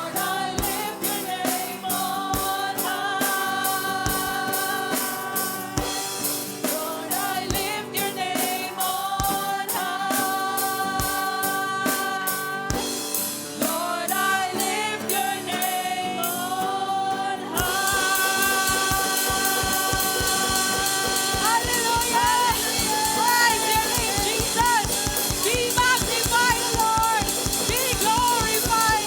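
Live worship band playing with singing over a drum kit; about two-thirds of the way through, the drums pick up to a fast steady beat and the music gets louder.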